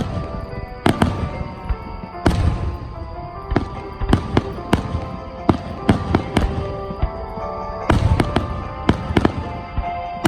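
Aerial fireworks bursting: a rapid run of sharp bangs, each trailing an echoing rumble, with a dense cluster about eight seconds in.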